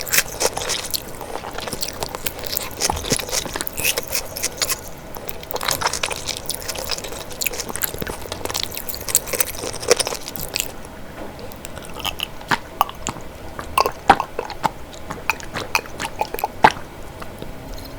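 Close-miked eating sounds from a meal of chicken curry, rice and salad: chewing and biting with wet mouth sounds and many irregular sharp clicks.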